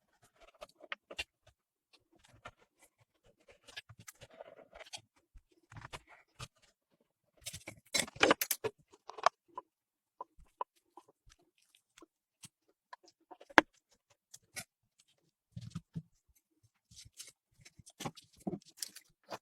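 Metal spatulas tapping and scraping on a rolled ice cream cold plate in irregular strokes, with a busier run of scrapes about eight seconds in.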